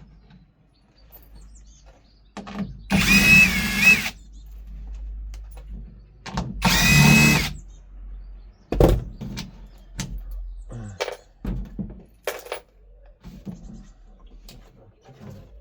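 Cordless drill-driver run twice in bursts of about a second each, its motor whining, followed by several sharp knocks and clicks.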